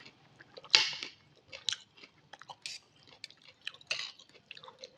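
A person chewing a mouthful of instant noodles close to the microphone, with irregular wet smacks and clicks and one louder noisy burst about a second in.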